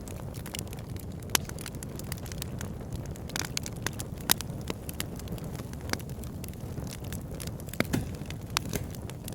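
Wood fire in a fireplace crackling: irregular sharp pops and snaps over a steady low rumble of burning logs, with a few louder pops scattered through.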